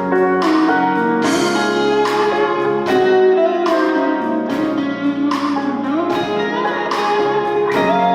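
Live band playing an instrumental passage of a ballad, with guitar strums about once a second over sustained chords and a wavering melody line.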